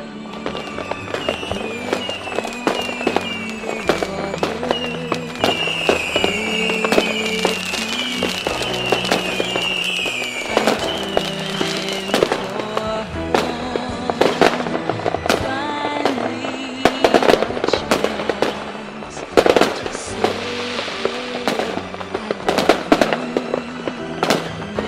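Fireworks sound effect: repeated bangs and crackling, with a run of short falling whistles over the first ten seconds or so, mixed over background music.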